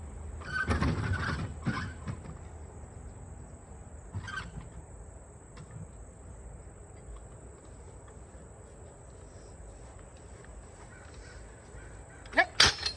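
Harsh bird calls outdoors: a loud cluster of calls about a second in, a shorter call around four seconds, and quick rising calls near the end.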